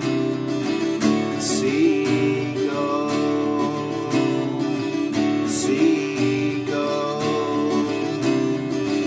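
Instrumental break of a song: strummed acoustic guitar with a melodic figure repeating about every four seconds.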